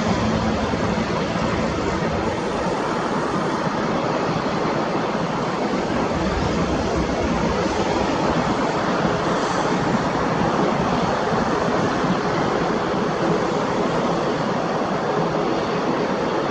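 ATR 72-600 twin-turboprop airliner's engines and propellers, a steady broad rumble with no sudden changes.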